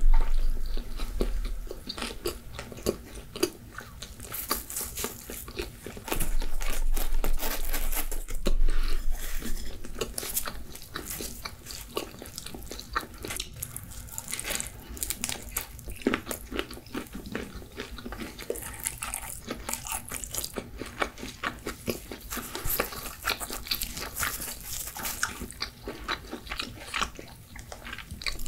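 Close-miked eating of pizza: biting into the crust and chewing, with many small crunches and wet mouth clicks. It is louder in the first second or so and again from about six to nine seconds in.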